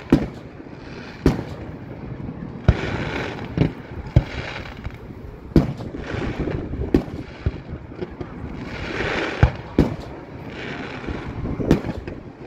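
Fireworks display: aerial shells bursting in about ten sharp booms at uneven intervals, with spells of hiss in between.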